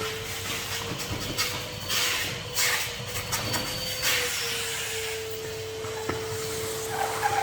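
Henry HVR200 620-watt canister vacuum cleaner running with a steady motor whine. The whine rises slightly in pitch for a few seconds and drops back about four and a half seconds in. In the first half come bursts of rushing, clattering noise with sharp clicks as the nozzle works over a surface.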